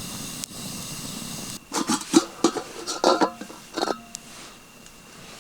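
Metal cookware clattering: a quick run of sharp clanks, some ringing briefly, as a pot and utensils are knocked together, starting about a second and a half in and lasting about two seconds.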